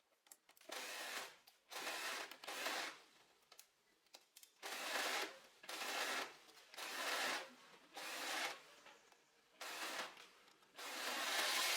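Jersey fabric rustling and rubbing as it is handled, in about ten short bursts with brief pauses between.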